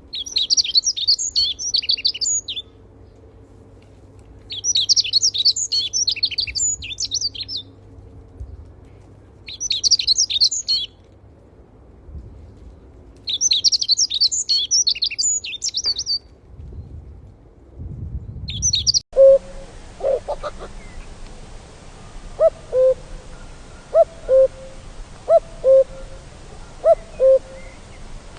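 A songbird singing rich, fast, high warbling phrases of two to three seconds each, four times with pauses between. After a cut about 19 seconds in, an owl gives short, evenly spaced low hoots a little more than once a second.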